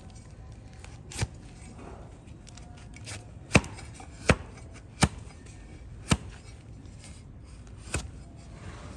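Trimming blade chopping into a donkey's overgrown hoof horn: six sharp, separate chops at irregular intervals, three of them coming close together in the middle.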